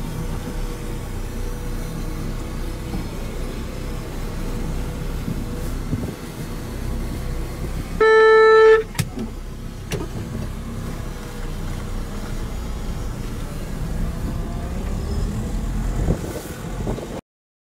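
A car's engine runs at low speed, heard as a steady low drone while the car creeps through a reverse-parking manoeuvre. About eight seconds in, just as the car sits fully backed into the bay, a single loud pitched beep sounds for under a second. It is followed by a couple of sharp clicks.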